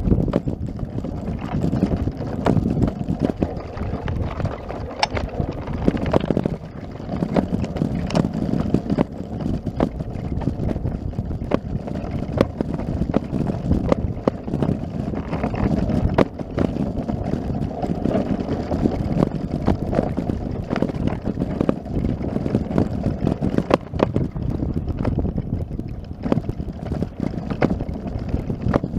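Wind buffeting the microphone: a steady, loud low rumble, with many scattered clicks and knocks through it.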